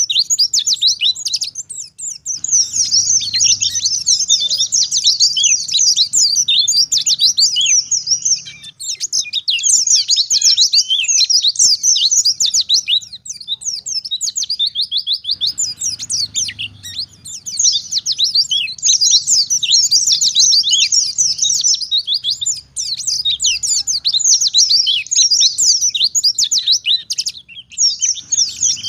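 White-eye (pleci) singing a fast, high-pitched run of rapid twittering notes, kept up almost without pause, with a short break about a third of the way in and another near the end.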